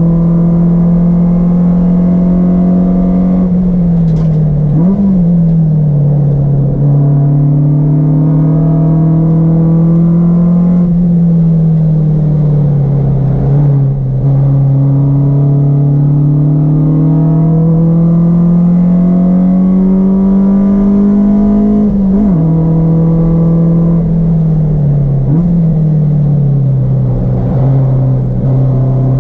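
Honda Civic EK hatchback's four-cylinder engine at full throttle on a race track. Its pitch climbs steadily under acceleration and falls away under braking, with a quick rev blip on a downshift twice.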